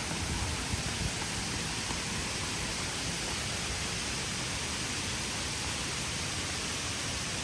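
Steady rush of water from a cascading waterfall stream, an even hiss across all pitches, with an uneven low rumble underneath.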